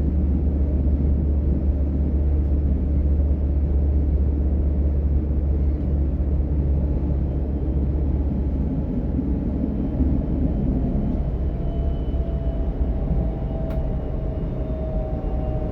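Class 425 S-Bahn electric multiple unit running between stations, heard from inside: a steady low rumble from the running gear, with a faint whine from the traction drive rising in pitch in the second half.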